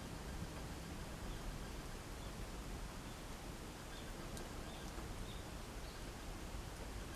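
Wood campfire burning with a steady low hiss and an occasional faint crackle or pop.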